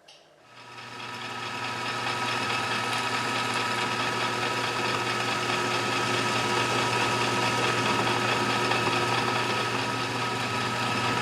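A machine motor starts about half a second in, winds up over a second or so, then runs steadily with a constant hum and fixed whining tones.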